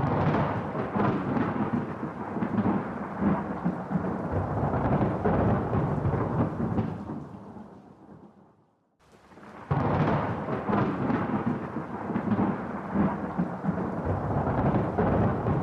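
Two rolls of thunder. Each starts suddenly and then rumbles on for several seconds. The first fades almost to nothing before the second breaks about ten seconds in.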